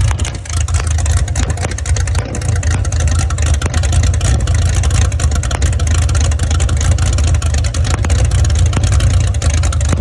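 Chrysler LA 360 small-block V8, fitted with an Isky 270 Mega camshaft and Stage 1 J cylinder heads, running steadily with a deep, even exhaust note.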